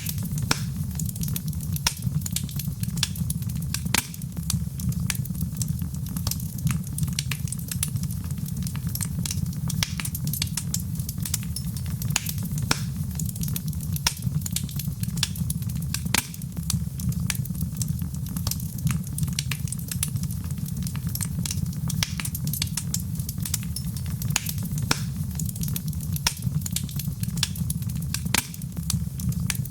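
Wood fire in a fireplace burning steadily, with a low rumble under frequent, irregular sharp crackles and pops.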